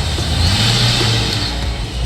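Car engine running loudly and swelling in a rev from about half a second to a second and a half in, with music underneath.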